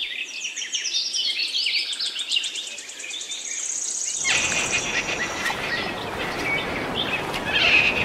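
Birds singing in fast trills of high, repeated chirps. About four seconds in, a steady hiss of outdoor ambience comes in underneath, and the chirping continues over it.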